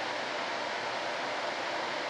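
Steady, even rushing hiss with no separate knocks or tones.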